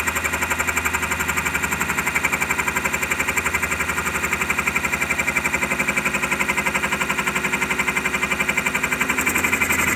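Wood lathe turning a wooden handle while a metal-machining boring head takes a light cut along its bore, a steady rapid pulsing with a running hum.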